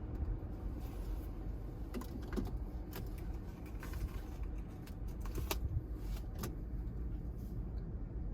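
Steady low rumble with scattered sharp clicks and light jingling rattles.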